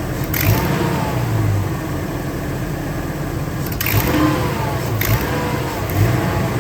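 Ford 6.8-litre Triton V10 engine running, revved in short blips so its pitch rises and falls again and again, with a few sharp clicks.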